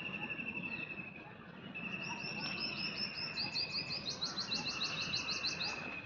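Birds calling: from about two seconds in, a rapid run of high down-slurred notes, about five a second, over a steady high trill that stops and starts.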